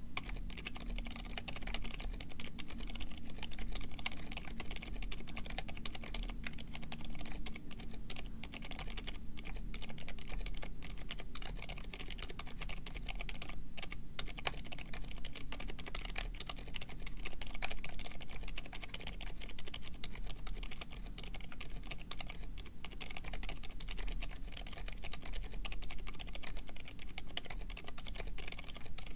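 Continuous fast typing on a mechanical keyboard with lubed Gazzew Boba U4 silent tactile switches and PBT keycaps in an aluminum case: dense, soft, muted key presses at an even pace.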